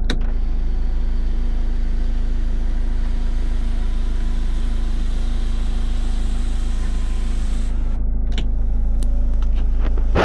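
Daewoo Winstorm SUV's engine idling steadily, with a sharp knock near the end.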